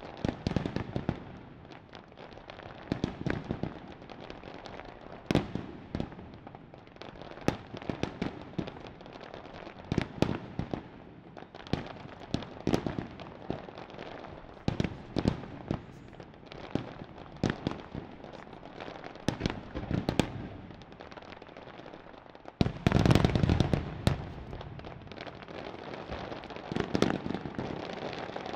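Aerial fireworks display: a steady run of shell bursts with bangs and crackle, peaking about three quarters of the way through in a dense, louder volley.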